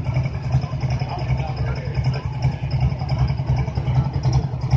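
A pulling truck's engine running steadily at idle: a loud, even, fast low pulse with no revving.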